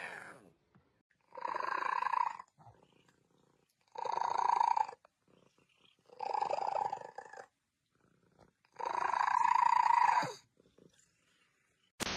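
A cat making a drawn-out, purr-like sound four times, each about a second long, with quiet gaps of a second or two between them.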